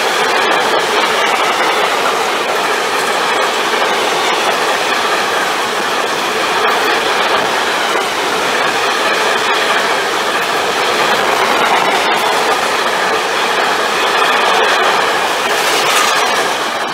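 Freight train of tank wagons rolling past at speed: a loud, steady rush of wheels on rail, with quick clicks of the wheels running over the track.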